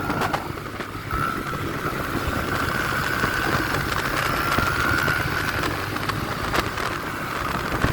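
Vehicle engine running steadily while riding along, with a thin steady high whine from about a second in that fades out after about five seconds.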